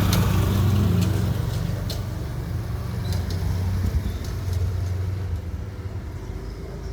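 Motor vehicle engine running with a steady low rumble that eases off over the last few seconds, with a few faint short high ticks on top.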